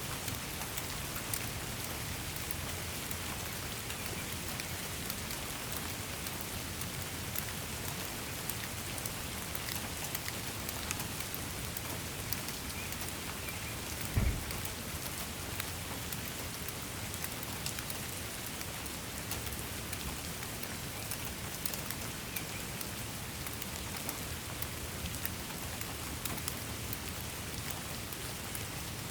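Steady rain falling on a surface, a constant hiss dotted with the ticks of individual drops. A brief low thump about halfway through.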